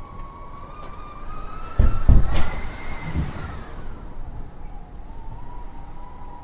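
A steady whistling tone that slowly wavers in pitch, rising a little and then sinking. There is a cluster of heavy clunks and a sharp click about two seconds in.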